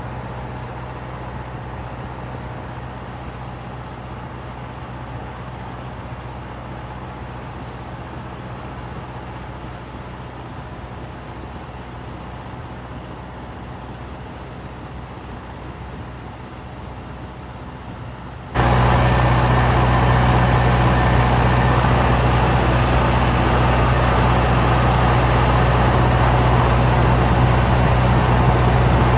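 Tractor engine running at a steady speed, a constant low drone; about two-thirds of the way through it abruptly becomes much louder.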